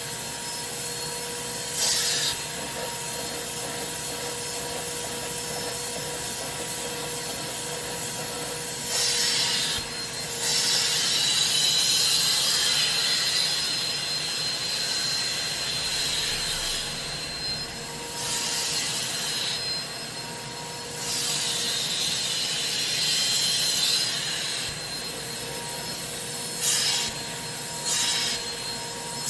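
Carpet-cleaning extractor running, its vacuum motor giving a steady whine, with repeated louder hissing surges of suction as the hand tool is worked over the fabric.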